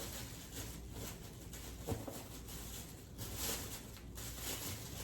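Dry twigs and moss rustling and crackling as they are handled, with one sharp click about two seconds in.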